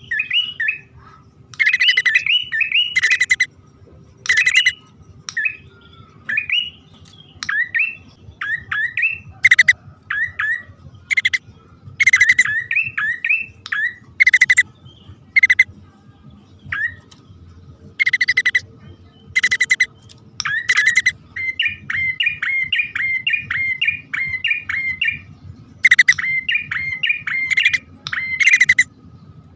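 Prinias (prenjak), male and female, calling: loud, sharp, clicking notes alternate with quick rising chirps. In the last third the chirps come in a fast rapid run.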